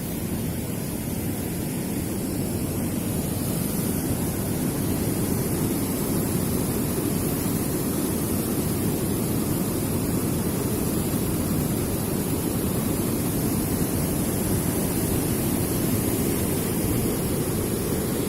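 Waterfall: the steady rushing of falling water, growing a little louder over the first few seconds and then holding.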